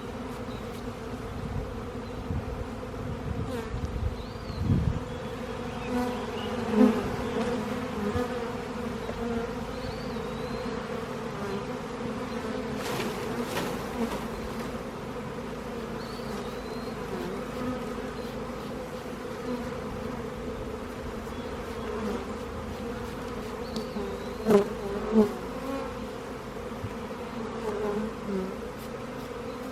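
Honey bees buzzing in a steady hum from a colony shaken out of its hive onto a platform and slowly walking back in. A few louder buzzes with a wavering pitch stand out, about 7 s in and twice close together near 25 s.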